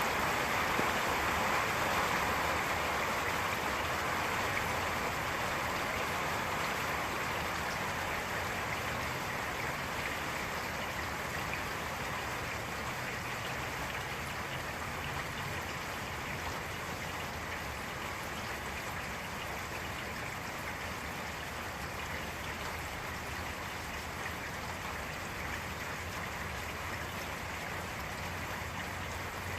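Steady rain, an even dense hiss with no thunder claps, easing gradually over the stretch.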